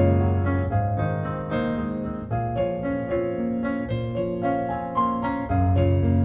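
Slow relaxing piano music: a melody of struck notes over long held bass notes.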